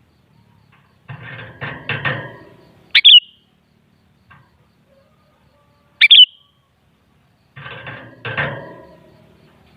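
Sooty-headed bulbul calling: two short, sharp, loud chirps about three seconds apart, with two longer, rougher, noisier passages around them.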